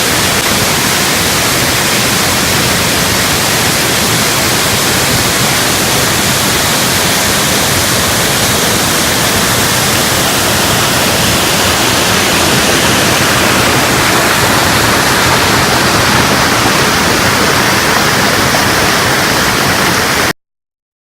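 Waterfall: a loud, steady rush of falling water that cuts off suddenly near the end.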